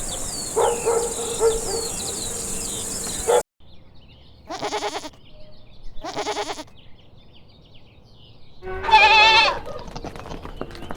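Goats bleating: three calls, the last the loudest with a wavering pitch. A noisy background with high chirps fills the first few seconds before a cut to quieter footage.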